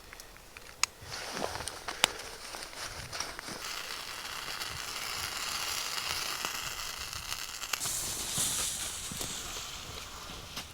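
Wood fire crackling and hissing, with two sharp pops in the first two seconds and a steady hiss that swells later on.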